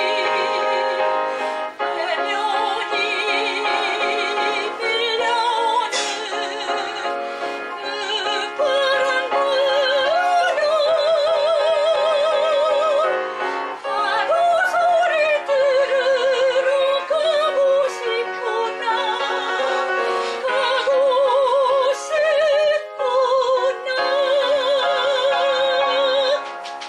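Soprano singing a Korean art song in operatic style with wide vibrato, accompanied by piano, closing on a long held note near the end.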